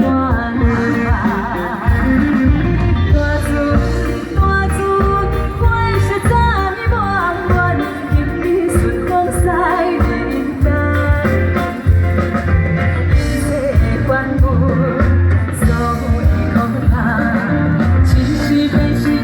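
A woman singing a Taiwanese Hokkien pop song, her voice carrying wide vibrato, over backing music with a steady beat and heavy bass.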